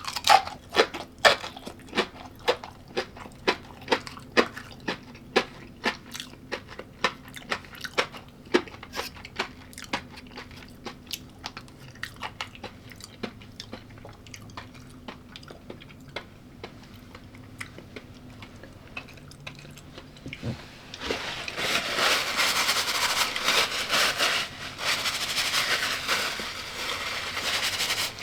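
Close-up chewing of crunchy food, with sharp crunches about two a second at first that thin out over the following twenty seconds. About twenty-one seconds in, a louder, even noise begins and becomes the loudest sound.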